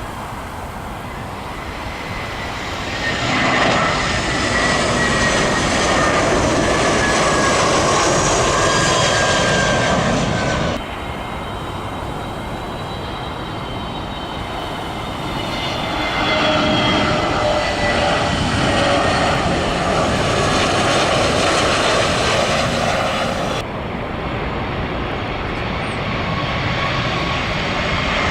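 Jet airliners passing low overhead on final approach to land: steady engine noise with a whine that slowly falls in pitch as each aircraft goes by. The sound changes abruptly twice as one aircraft's pass gives way to the next.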